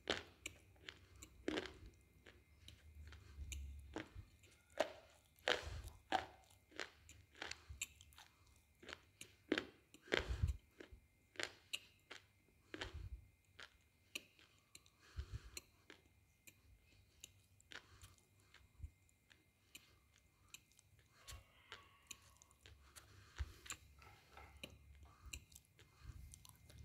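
A person biting and chewing hard, brittle pieces of slate: sharp crunches about one or two a second, thinning out and growing quieter through the second half.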